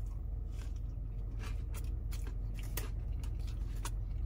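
A man biting into and chewing a Double Southwest Bacon Whopper, with many short wet clicks and crackles from the bite and chewing. A steady low hum runs underneath.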